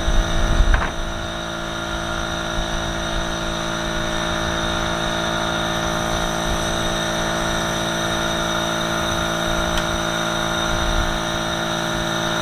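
A steady mechanical hum at one unchanging pitch, with a low fluttering rumble underneath and a couple of light knocks about a second in.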